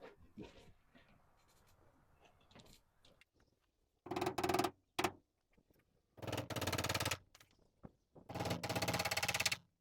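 A motorised power tool run in three short bursts, the last the longest, each a fast, rattling run of pulses.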